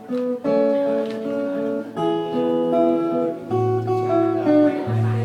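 Acoustic guitar playing a picked melody of separate notes, with low bass notes sounding under it in the second half.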